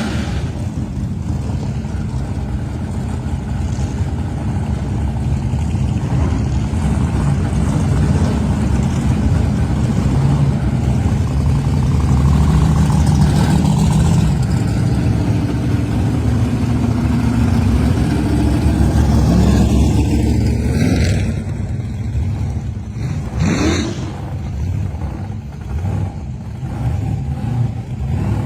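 Classic muscle car engine with a heavy low rumble, revving up and down through the middle, followed by two short whooshing sweeps near the end as cars go by.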